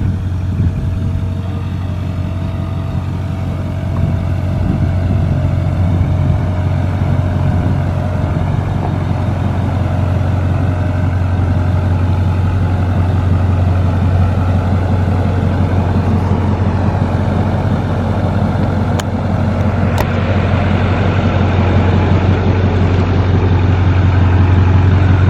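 Truck engine running steadily with a strong, even low drone, getting slightly louder toward the end.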